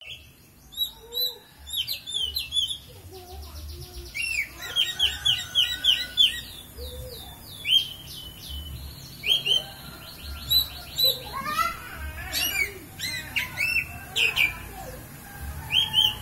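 Oriental magpie-robin singing a varied song of loud whistled notes, sweeping phrases and rapid chattering trills, with short pauses between phrases.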